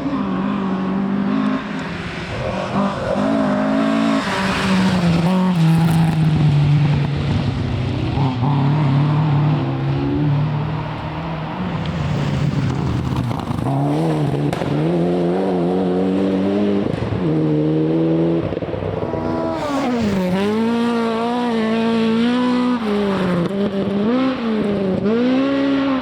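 Rally car engine run hard, held high and climbing through the gears; from about twenty seconds in the revs drop and swing up and down quickly as the throttle is lifted and blipped.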